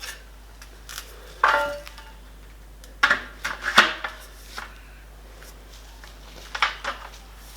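Aluminium bar sections being handled and knocked together: a handful of sharp metallic clanks, some ringing briefly.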